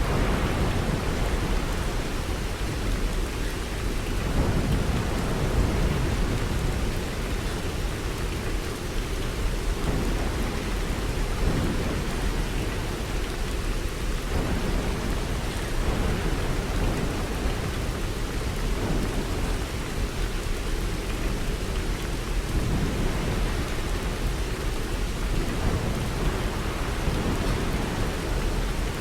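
Steady rain falling, with a low rumble that swells and fades underneath.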